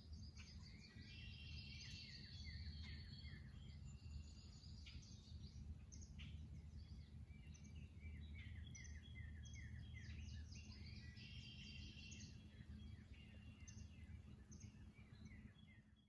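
Faint songbirds singing: two longer spells of trills and quick down-slurred notes, with scattered chirps between them, over a steady low hum.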